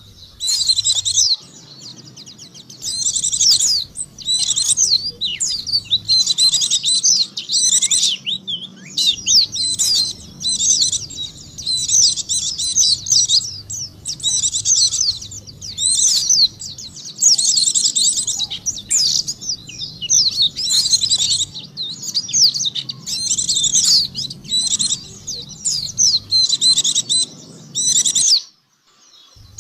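White-eye (pleci) song: rapid, high twittering phrases of a second or two, repeated again and again with short gaps, played as a lure call to draw white-eyes in. The song breaks off for about a second near the end.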